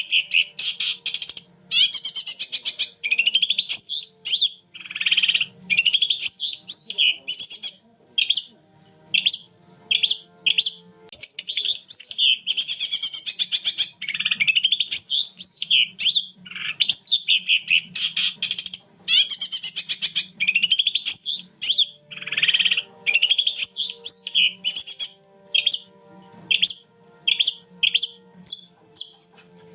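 Long-tailed shrike (cendet) in full song: long runs of rapid, high chattering notes and sweeping whistles, broken by short pauses, the vigorous nonstop singing keepers call gacor.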